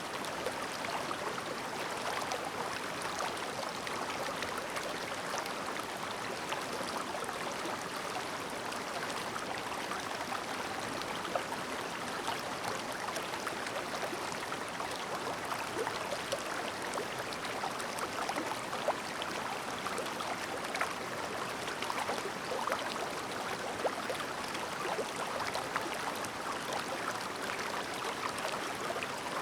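Shallow clear river babbling steadily over stones, with small splashes and gurgles scattered through it.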